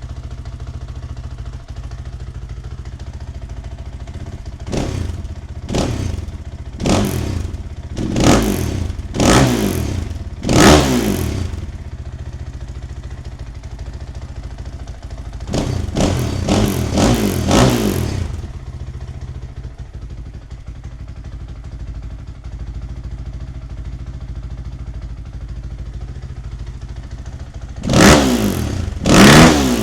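Single-cylinder four-stroke engine of a 2017 Husqvarna FE 501 dirt bike with an FMF 4.1 titanium exhaust, warmed off the cold start, idling steadily and blipped through the throttle. There are six quick revs in a row a few seconds in, a tighter cluster of blips in the middle, and two hard revs near the end.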